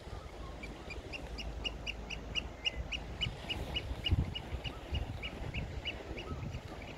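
A bird calling a fast, regular run of short, sharp, high notes, about three or four a second, starting about half a second in and going on throughout. Wind rumbles on the microphone underneath, with a gust in the middle.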